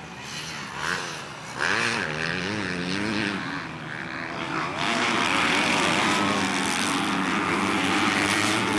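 250 cc grasstrack racing motorcycle engines revving, their pitch rising and falling as the riders work the throttle. The sound gets louder and fuller from about five seconds in as bikes pass close by.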